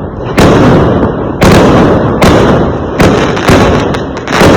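Fireworks exploding: about six loud bangs in quick, uneven succession, each followed by a rumbling tail that has not died away before the next bang.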